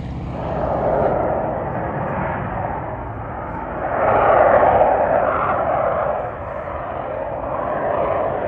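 Airplane engine noise as an aircraft flies past, a steady rush that swells about four seconds in and eases off again about two seconds later.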